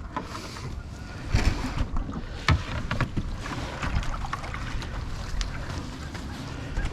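Plastic kayak being pushed off into the water, with a few irregular knocks and scrapes of the hull and paddle over a steady noisy background. Wind is on the microphone.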